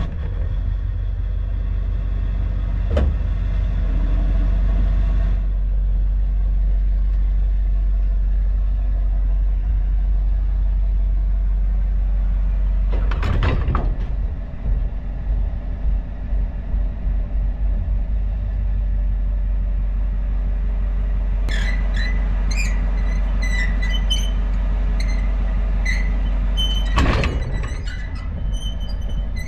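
Dually pickup truck engine running steadily, with a few clunks at about 3, 13 and 27 seconds as the truck is coupled to a fifth-wheel car-hauler trailer. From about two-thirds of the way in, a run of short high squeaks and creaks comes from the hitch and trailer.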